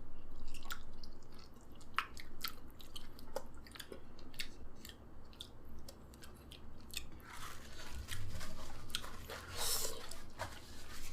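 Close-up eating sounds: food being chewed and bitten, with many small wet mouth clicks. About seven seconds in, a longer scratchy rustling noise runs for a couple of seconds.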